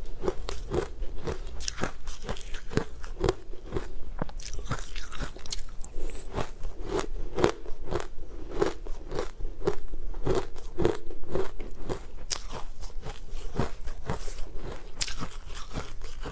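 Close-miked crunchy chewing and biting of crumbly green food, a steady run of crisp crunches at about two a second.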